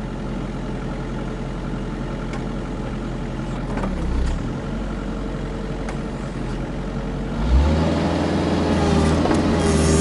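Kubota KX121-3 mini excavator's diesel engine running while it warms up, with a brief rise in the engine note about four seconds in and a step up to a louder, higher note near the end.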